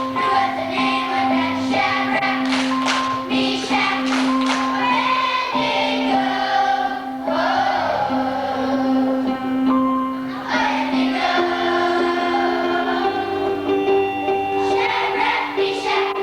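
A choir singing a song with instrumental accompaniment, the voices holding and changing notes over steady backing chords.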